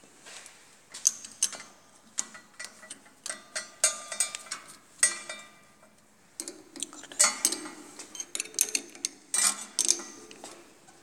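A metal hand tool clicking and clinking on the nuts as a compression gauge adapter is tightened into the injector seat of a single-cylinder diesel engine. There are bursts of sharp metallic clicks with brief pauses between them.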